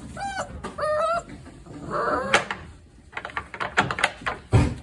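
Boerboel puppy giving a few short, high whining yelps with rising and falling pitch in the first second or so, then a rougher cry. This is followed by a run of sharp clicks and a loud thump near the end.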